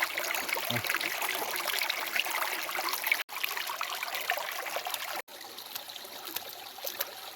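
Water flowing and trickling, as from a stream, with a steady rushing haze. It cuts off abruptly twice, a little past three seconds and past five seconds, and runs on quieter after the second break.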